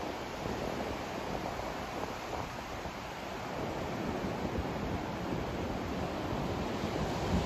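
A white-noise track for sleep: a steady, even hiss with a low, uneven rumble beneath, slowly getting a little louder.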